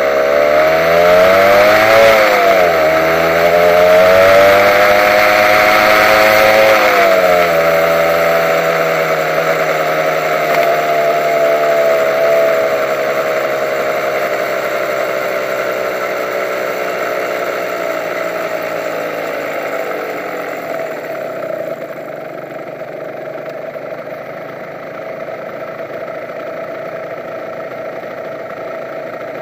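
Honda NSR150's two-stroke single-cylinder engine under way. The engine note climbs, dips sharply about two seconds in, then climbs again. It then falls slowly as the bike slows, with rushing wind noise fading, and settles to a steady idle for the last several seconds.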